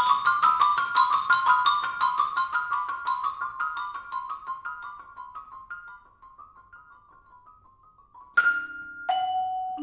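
Marimbas playing a run of rapid, quickly repeated mallet notes that thins out and fades almost to nothing over about six seconds. Near the end come two single struck notes about a second apart, each ringing on.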